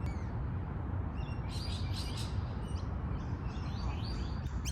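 Birds chirping in short, high notes, in a quick run about a second and a half in and again near the end, over a steady low rumble.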